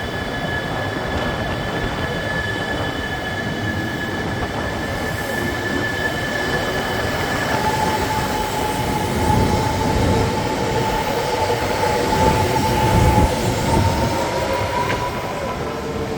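E3 series Yamagata Shinkansen train pulling out of the station, its electric traction drive whining over the rumble of wheels on rail. A high steady whine fades about a third of the way in, and a lower whine starts about halfway through, climbing slightly in pitch as the train gathers speed.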